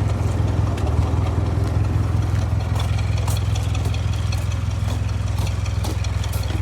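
1955 Ford 660 tractor's four-cylinder engine idling steadily.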